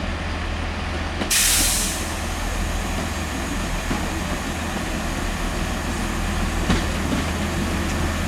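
Diesel train engine running steadily with a low hum, with a short loud hiss of compressed air, like an air brake release, about a second and a half in.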